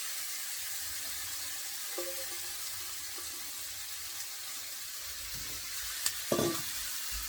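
Seasoned chicken feet frying in hot oil and browned curry powder in a pot, giving a steady sizzle. A sharp click comes about six seconds in.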